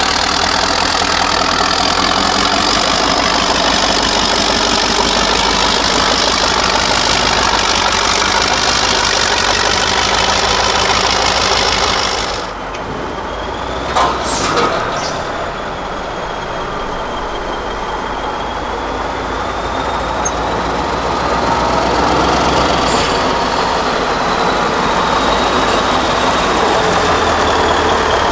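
An 8x8 Mercedes-Benz trial truck's diesel engine running under varying throttle. About halfway through the sound briefly drops and there are a couple of sharp knocks. After that a thin whine rises and falls in pitch over the engine.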